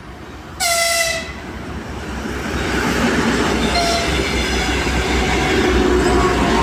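A locomotive horn gives one short, sharp blast about half a second in. The rising rumble of an express train approaching at speed follows.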